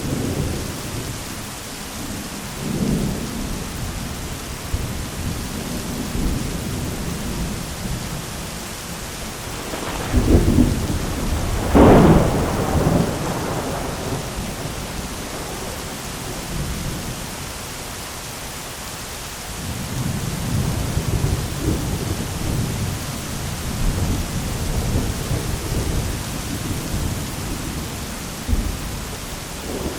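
Heavy rain falling steadily on an umbrella during a thunderstorm, with rolling thunder. The loudest thunder peals about ten to thirteen seconds in, and longer rumbling follows from about twenty seconds in.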